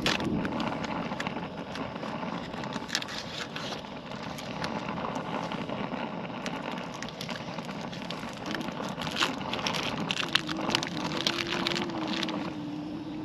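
Polish sausages sizzling in a pan on a camp stove, with frequent sharp pops and spatters over a steady hiss, and wind on the microphone. A low steady hum comes in about nine seconds in.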